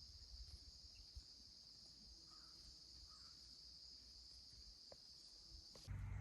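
Faint, steady chorus of crickets, a continuous high trill, with a couple of faint short calls in the middle. Just before the end it cuts suddenly to a louder low rumble.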